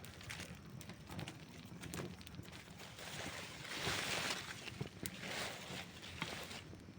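Wood campfire crackling, with scattered sharp pops and a hiss that swells and fades about three to four seconds in, and again briefly after five seconds.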